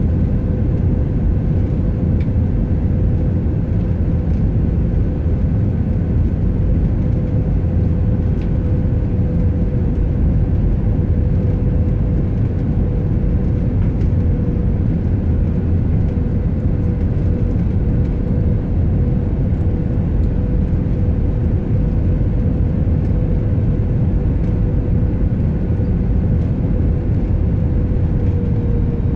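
Airliner cabin noise: a steady, loud rumble of jet engines and airflow heard from inside the passenger cabin, with a steady engine hum that drops slightly in pitch near the end.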